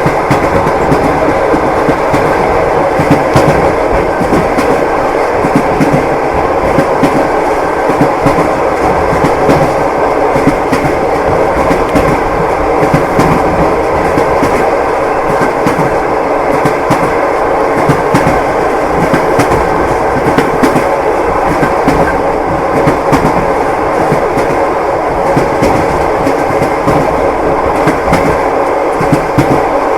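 A moving train carriage: a steady rumble with the clickety-clack of its wheels knocking over the rail joints.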